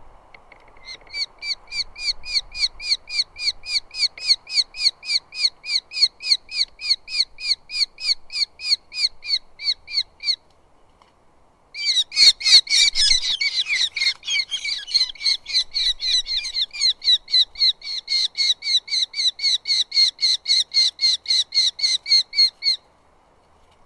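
Eurasian hobby calling: a fast run of short, sharp, repeated notes, about four a second, that stops, then starts again about twelve seconds in with a louder, rougher burst before settling back into the same even run.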